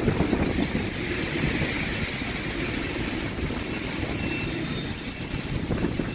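Strong storm wind blowing against the microphone: a steady, dense rumble with no break.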